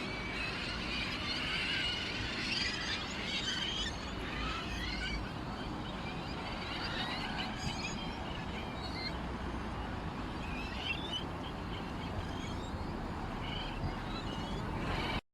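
Many small birds chirping and twittering over one another, busiest in the first few seconds and then in scattered calls, over a steady background hiss.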